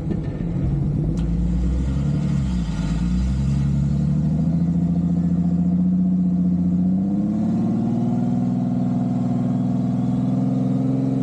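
A vehicle engine running steadily, then climbing in pitch about seven seconds in and holding the higher pitch.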